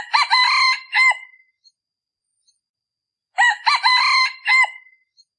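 A male junglefowl decoy cock crowing twice, about three and a half seconds apart. Each crow is short and clipped, about a second and a half long, and this call is used to lure wild junglefowl.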